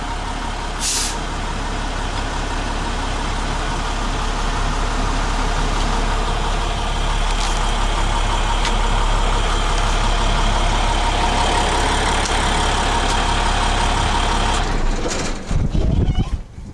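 International 4300 truck's diesel engine idling steadily. The sound drops away about fifteen seconds in, followed by a few knocks.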